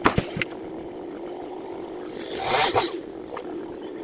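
Chainsaw engine idling steadily, with a couple of sharp knocks right at the start and a short swell about two and a half seconds in.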